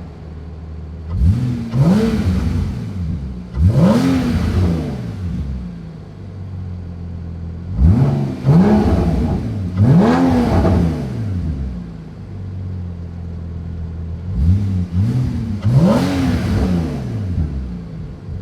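Porsche 981 Cayman S flat-six engine blipped from idle through its Armytrix valvetronic exhaust: about six quick revs in three groups, each rising and falling in pitch, with steady idling between them.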